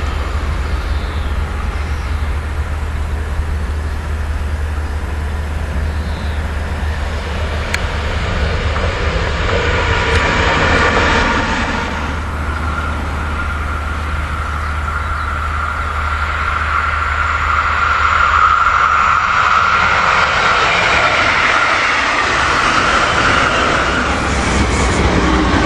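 Trains running on an electrified main line with a steady low rumble. First a red electric locomotive approaches. About halfway through, a regional multiple unit comes in with a steady whine that grows louder toward the end.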